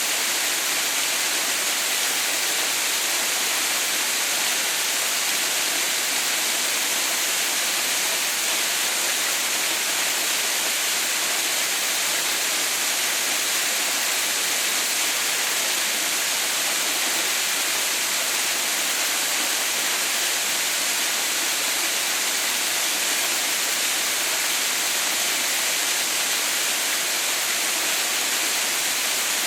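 Water pouring steadily down Haha no Shirataki, a waterfall partly frozen into an icefall: an even, unbroken rush, mostly high-pitched hiss, with no change in level.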